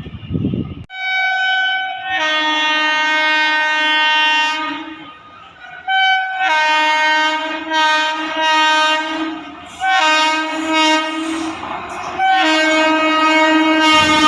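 Indian Railways WAG-5 electric locomotive's two-tone horn sounding in four blasts, each a short higher note dropping into a longer, lower note; the last blast is still going at the end.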